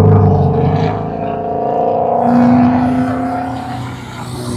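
A car engine running, loudest at the start and fading toward the end, with a brief swell in pitch and level about two seconds in.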